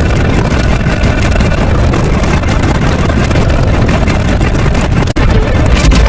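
Loud, steady low rumbling noise, broken for an instant about five seconds in and then going on a little louder.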